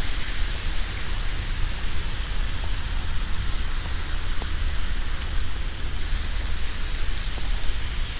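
Steady hiss of sleet and wet snow falling, with a few faint ticks of ice pellets and a low rumble of wind on the microphone.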